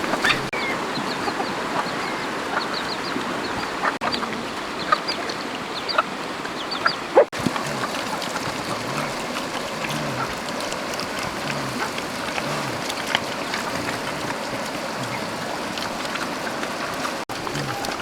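Domestic fowl clucking: soft, low calls repeat every half second or so over a steady outdoor hiss, with a few sharp clicks.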